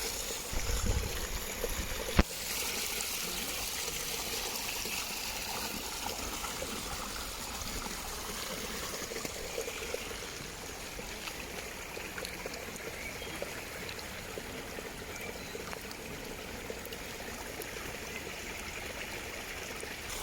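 Running stream water, steady and trickling. A brief low rumble comes about a second in, followed by a single sharp click at about two seconds.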